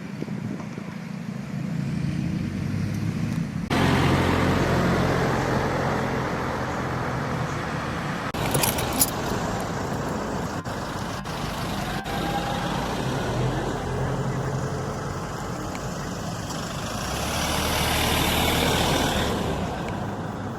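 Motor vehicle engine running, with a steady low hum, joined about four seconds in by a louder rush of road or wind noise that swells again near the end, as of passing traffic.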